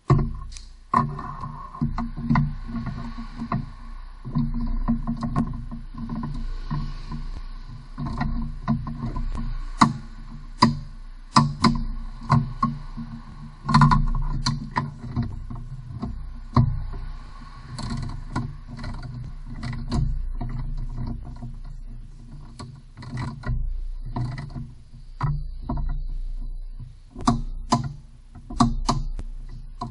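Irregular metallic knocks, clicks and clanks of hand tools working on a car's rear wheel hub, over a steady low hum.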